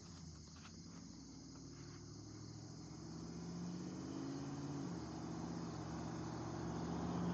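A car approaching, its engine and tyre noise growing steadily louder, with the engine note stepping down about five seconds in.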